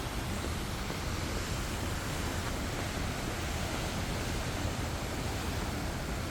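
Steady rain falling, an even hiss with no distinct drops or events.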